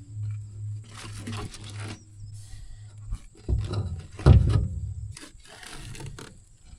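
Clunks, knocks and scraping from hands-on work on farm equipment, with two louder knocks about three and a half and four and a half seconds in, over a steady low hum that stops about three seconds in.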